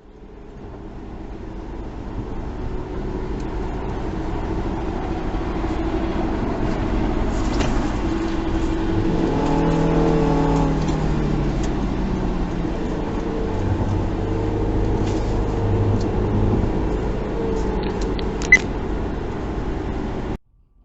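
Car engine and road noise picked up by a dashcam, a steady low rumble with the engine tone swelling about halfway through. A single sharp click comes near the end, and the sound cuts off suddenly.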